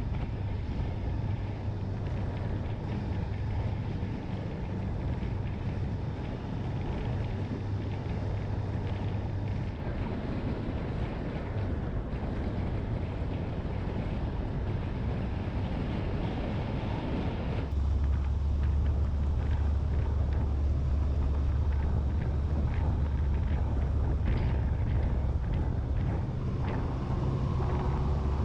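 Honda motorcycle engine running on the move, with wind rushing over the microphone. A little past halfway through, the engine note drops lower and grows louder, and stays there.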